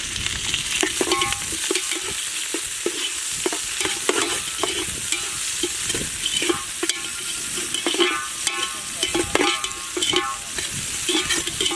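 Chopped onions frying in hot oil with a steady sizzle, stirred in the pan with a utensil that scrapes and clinks against the metal again and again, some knocks leaving a short ring.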